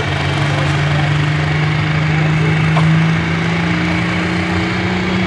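Turbocharged diesel engine of a light pro stock pulling tractor running loud and steady, its pitch slowly rising, with a thin high whine over it.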